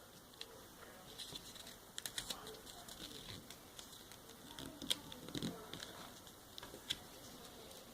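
Faint rustling and crackling of a sheet of paper being folded and creased by hand, with scattered sharp ticks.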